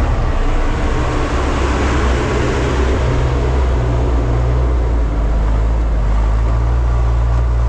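Heavy scrap-processing machine running under load: a steady, loud low engine hum with a rattling, grinding noise of scrap metal on top that swells about two to three seconds in.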